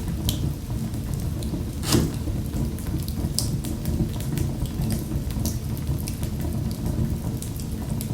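Wood fire crackling in a fireplace: a steady low rumble of the flames with scattered sharp pops, the loudest about two seconds in.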